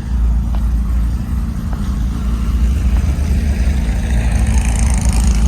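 Steady, deep engine rumble of a car running at low speed.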